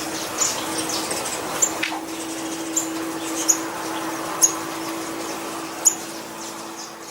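Small songbirds giving short, sharp, high-pitched chirps, roughly one a second, over a steady low hum.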